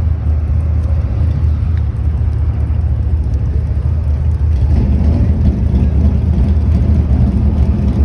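Steady low engine rumble of a vehicle running, with more mid-range engine sound coming in about five seconds in.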